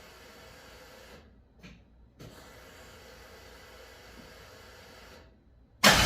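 Faint steady hiss, broken twice by short dropouts to silence; just before the end a loud sound starts suddenly.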